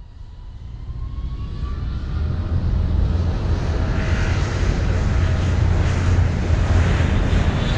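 A deep, steady rumbling roar that fades in from silence, grows louder over the first three seconds, then holds.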